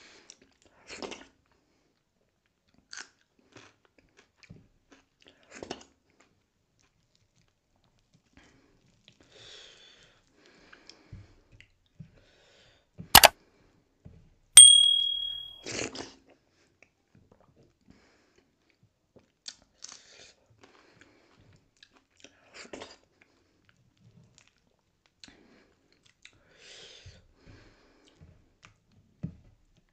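Close-miked chewing and soft lip smacks of someone eating dhido and sisnu by hand, a few short wet sounds every second or two. About halfway through, a sharp click and then a bright chime ring out, the loudest sounds here: a subscribe-button sound effect.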